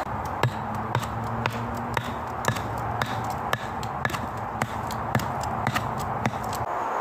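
Rhythmic knocking, about two sharp strikes a second, with a low steady hum under the first few seconds.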